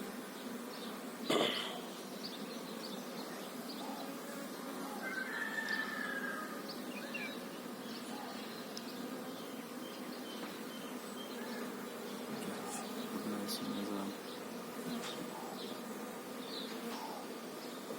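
Honeybees buzzing steadily, with a single sharp knock about a second and a half in and a brief high chirp a few seconds later.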